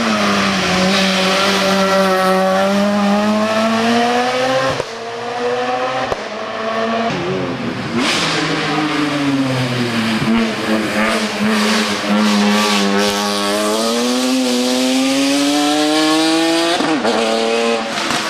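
A hill-climb race car engine at high revs, pulling up through the rev range with a slowly rising pitch. It drops away suddenly about five seconds in, then comes back, falls and climbs again to a high whine before breaking off near the end.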